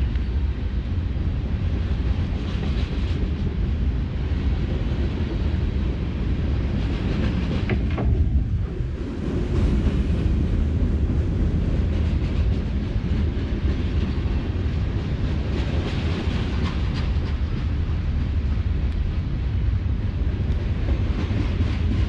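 A slow-moving train passing close by, heard as a steady, heavy low rumble.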